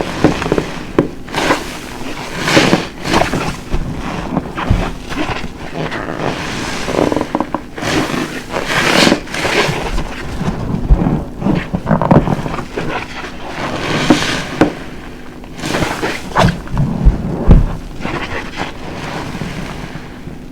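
A large car-wash sponge soaked with soapy dishwashing liquid being squeezed over and over, giving repeated, irregular wet squelches.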